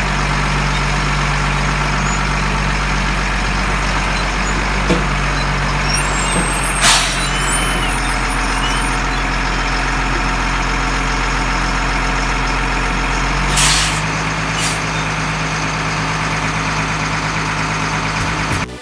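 LMTV M1078 military truck's diesel engine running steadily, with two short sharp hisses of released air, one about 7 seconds in and one near 14 seconds, after which the engine note changes.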